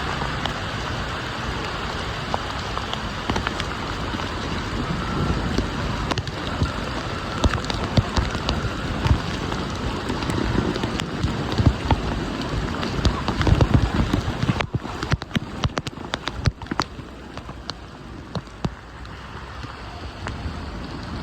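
Heavy rain falling, a dense steady hiss peppered with sharp drop impacts. About two-thirds of the way through it turns suddenly quieter, leaving a thinner patter of separate drops.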